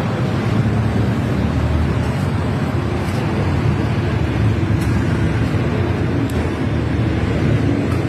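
Car engine running steadily at idle, a low, even drone with no change in speed.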